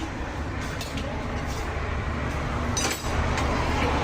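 Lexus ES300's V6 engine running with a steady low hum, with a few light metallic clinks about three seconds in, after which it runs slightly louder.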